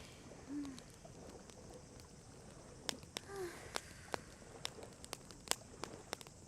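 Wood campfire crackling, with irregular sharp pops and snaps. Two short, arching low calls sound in the background, about half a second in and again after about three seconds.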